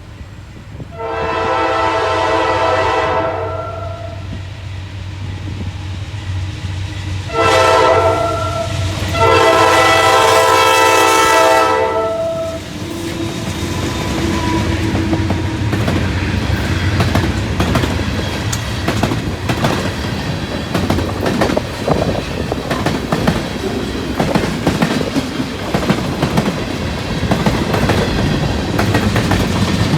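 Freight train locomotive's multi-tone air horn sounding three blasts, long, short and long, then the freight train rolling past with a rumble and a steady clickety-clack of wheels over the rail joints.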